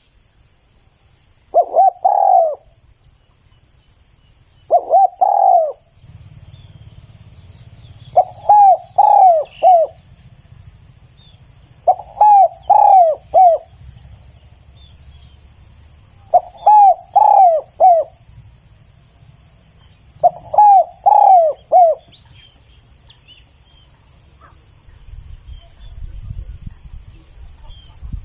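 Spotted dove cooing: short two-note coos early on, then repeated three-note coo phrases about every four seconds, the last ending about 22 seconds in.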